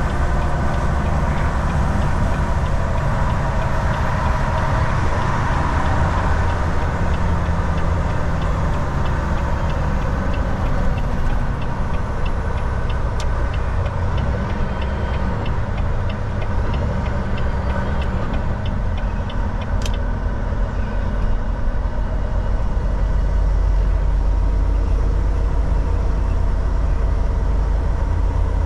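Volvo VNL 760 semi truck's engine and road noise heard from inside the cab, a steady low rumble. Through the middle comes a regular ticking, about two a second, ending with a single sharp click.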